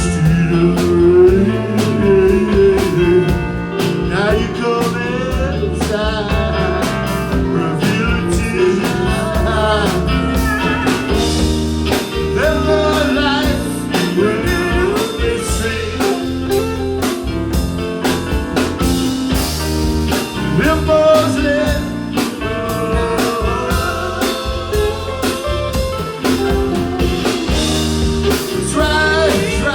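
A band playing a blues-style song live, with guitar over a steady drum beat and bass.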